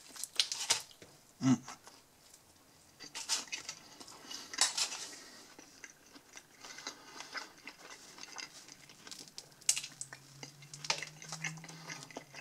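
A person biting and chewing a slice of pan pizza with its thick bready crust, among scattered short clicks and crackles of handling. A low steady hum comes in about ten seconds in.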